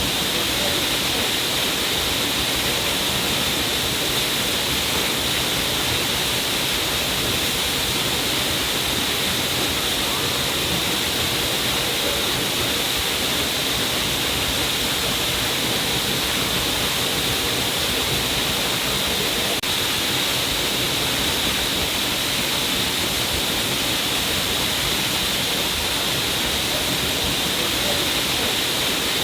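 A stream of water pouring down a cliff face: a steady, even rush of falling and splashing water with a bright hiss, unchanging throughout.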